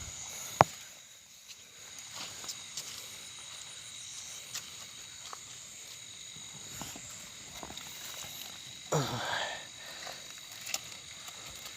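Steady chorus of night insects, crickets trilling in high, constant tones. There is a sharp click just after the start, scattered small ticks, and a brief louder sound falling in pitch about nine seconds in.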